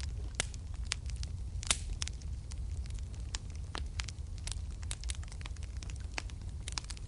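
Wood fire burning in a fireplace, popping and crackling at irregular intervals over a steady low rumble, with one louder pop about a second and a half in.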